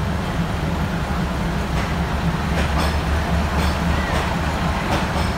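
Train rolling slowly out of a station: a steady low diesel rumble, with a few sharp clicks of wheels over rail joints.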